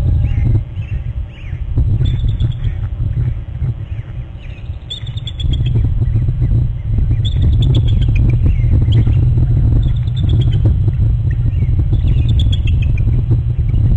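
Bird chirping in short falling series of notes, repeated every second or two, over a steady low rumble.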